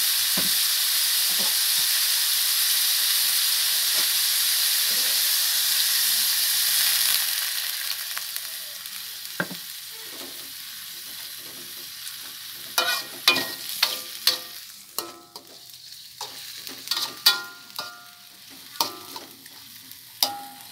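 Chicken pieces in spice paste sizzling loudly in a hot aluminium wok as a little water goes in. The hiss dies down after about seven seconds. Later a metal spatula clinks and scrapes against the wok a dozen or so times.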